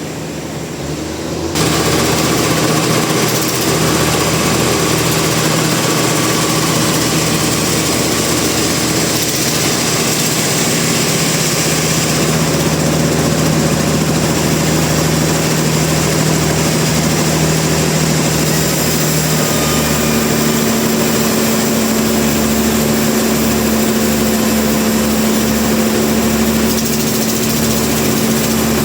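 Sawmill machinery running with a loud, steady mechanical hum and noise; it gets louder about a second and a half in, and the hum shifts up in pitch about two-thirds of the way through.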